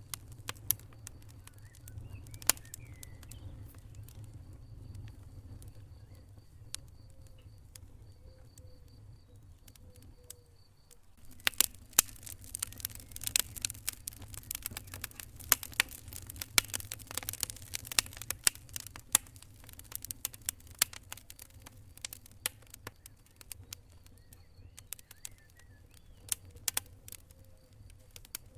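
Wood fire crackling in a fireplace: sharp pops and snaps over a steady low rumble of the flames. The pops come thick and loud for several seconds from about eleven seconds in, then thin out again.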